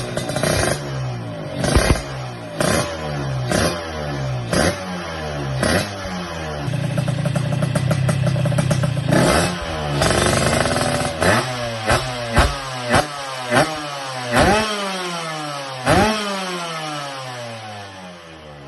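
Yamaha RX-King two-stroke single-cylinder engine revved through a short aftermarket exhaust. It gets repeated sharp throttle blips about once a second, a held rev about a third of the way in, then more blips with the revs falling away after each.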